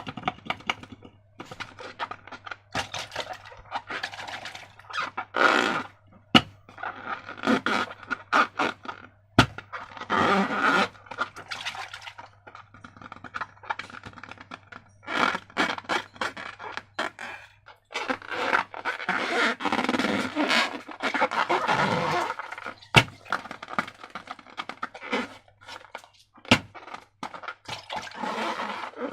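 Slime and rubber balloons being squeezed and handled: irregular squelches and rubbery rubbing sounds, broken by a few sharp clicks.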